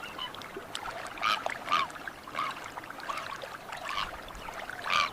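Birds calling: a series of short, repeated calls, about two a second.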